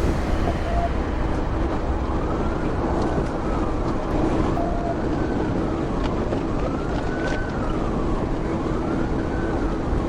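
Emergency vehicle siren wailing, rising and falling in pitch about every two seconds, over a loud, steady low rumble of traffic.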